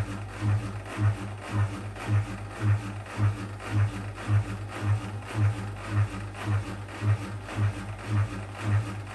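Whirlpool WWDC 7440 washing machine running mid-cycle: a steady low motor hum that pulses in an even rhythm about twice a second.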